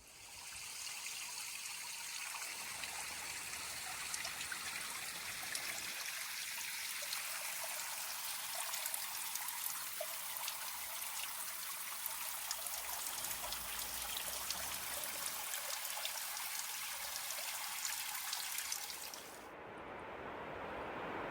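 Stream water running over rocks: a steady, even hiss that cuts off abruptly near the end, giving way to a softer sound.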